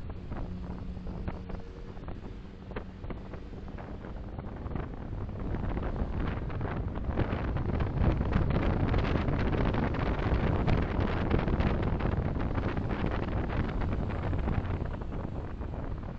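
Road and wind noise of a moving car as picked up by a dashboard camera: a steady rumble with fine crackle from the tyres. It grows louder a few seconds in, as with gathering speed, and eases again near the end.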